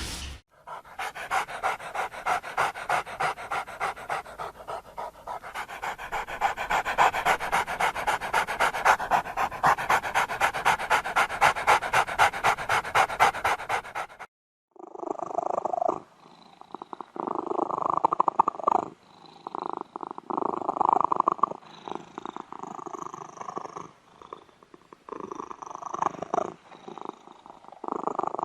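A dog panting fast and evenly, about four breaths a second, for roughly fourteen seconds; then it cuts off and a different recording of irregular, uneven animal sounds follows.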